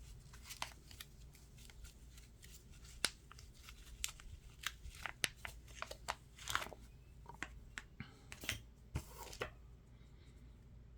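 Faint crinkling and rustling of coin packaging with scattered small clicks and taps as a one-ounce silver round is worked out of its individual wrapping. The handling stops about nine and a half seconds in.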